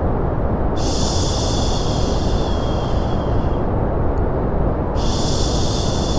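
Steady white-noise hiss with a long drawn-out 'shhh' shushing sound laid over it. The shush comes in about a second in and again near the end, lasts about three seconds each time and fades away. This is a baby-soothing shushing track.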